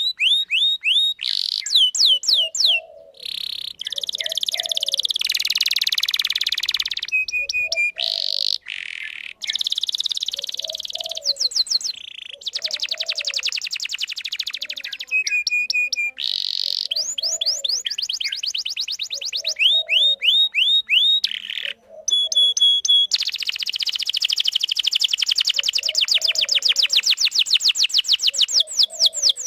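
Canary singing a long, continuous song: runs of fast repeated chirping notes and rapid trills, switching from one phrase type to the next every few seconds with only brief breaks.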